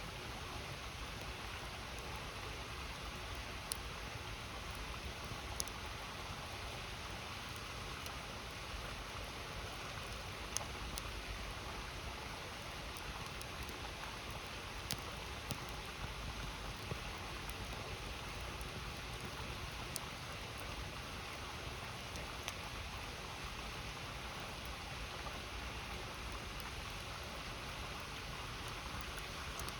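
Steady rushing of a river stream, with a wood campfire crackling over it in sharp, scattered pops every few seconds.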